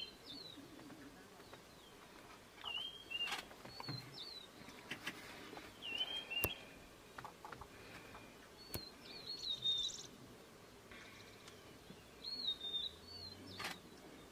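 Wild birds calling: short whistled phrases of a few quick rising-and-falling notes, repeated every two to three seconds over a faint outdoor background, with a couple of sharp clicks.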